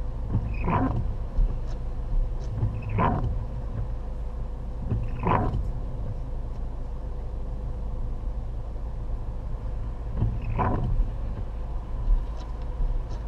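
Steady low road and engine rumble inside a moving vehicle's cabin, with a faint steady hum. A short swish comes through four times at uneven intervals.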